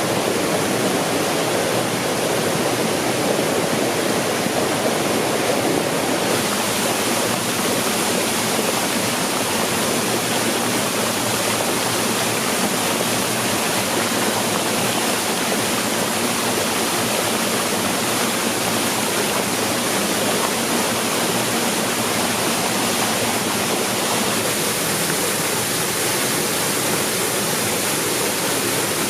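Waterfall: a loud, steady rush of falling water, its tone shifting slightly about six seconds in.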